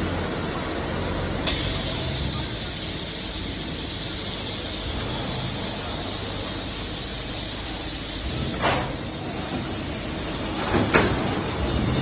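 Machinery of an automated air conditioner casing production line running with a steady hum. A loud hiss starts about a second and a half in and cuts off with a knock about nine seconds in, followed by two sharp knocks near the end.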